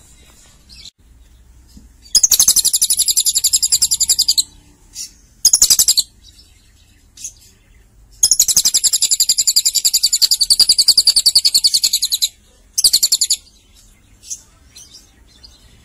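Lovebird singing long, very fast, high trills in the cililin style: a trill of about two seconds, a short burst, a four-second trill, then another short burst.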